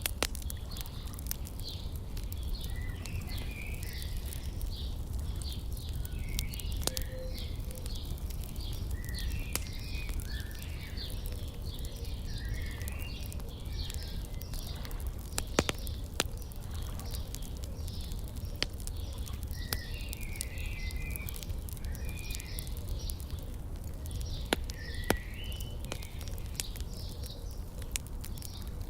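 Small birds chirping and singing again and again, over a crackling wood fire that gives scattered sharp pops, with a steady low rumble underneath.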